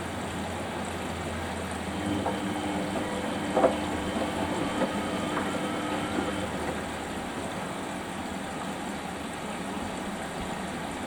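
Samsung washing machine running a Daily Wash 30 cycle: the drum turning with water sloshing. A steady motor hum joins about two seconds in and fades out past the middle, with a single sharp knock a little after three seconds.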